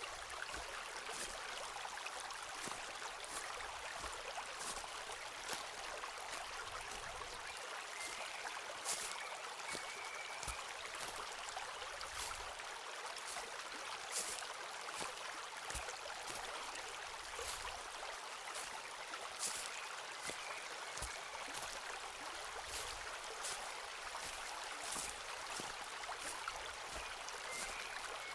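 Steady rush of a forest stream, with irregular crisp ticks and low thumps of footsteps on a woodland path. A few faint short chirps.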